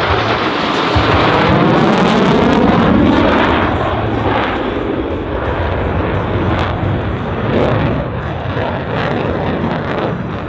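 F-16 fighter jet's single turbofan engine roaring in a low pass. It is loudest about two to three seconds in, with a sweeping, phasing hiss as it goes by, then eases off.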